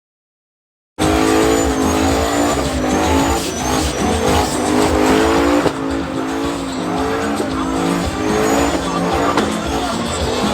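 Truck burnout: an engine held at high revs while the tires squeal and spin, starting abruptly about a second in.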